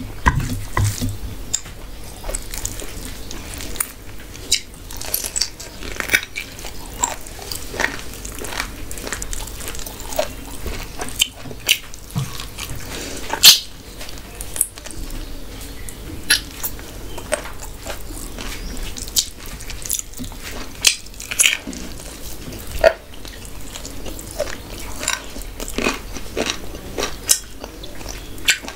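Close-miked eating sounds of a person eating a mutton curry meal with Mughlai paratha and rice: irregular wet chewing, lip smacks and sharp bites, the loudest bite about thirteen seconds in.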